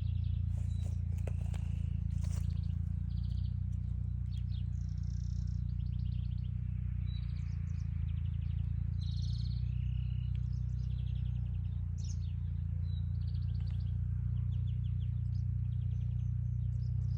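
Small songbirds chirping and trilling in short, quickly repeated phrases, several calls overlapping, over a steady low rumble.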